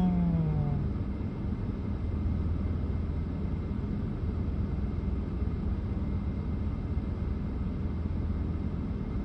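Steady low rumble of a car engine running, with an even hum throughout. In the first second, a man's voice gives a short groan that slides down in pitch.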